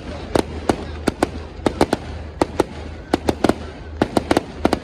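A fireworks display: a rapid, irregular run of sharp bangs and cracks, many coming in quick pairs and clusters, over a steady low hum.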